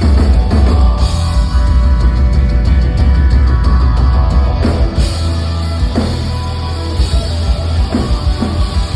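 Rock band playing live: distorted electric guitars, bass and a hard-hit drum kit, loud and dense, heard from the audience.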